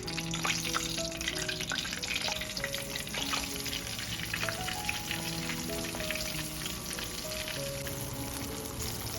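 Food frying in a pan, a dense steady crackle and sizzle of hot oil, under soft background music.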